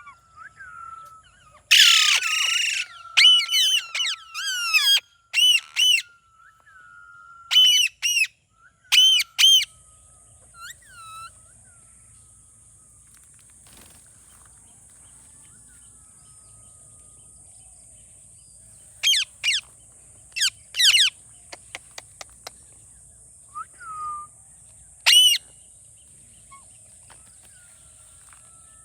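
Indian ringneck parakeet calling: a loud screech about two seconds in, then quick sharp repeated calls and squawks for the first ten seconds, and scattered short calls later on. A steady high hiss runs beneath from about ten seconds in.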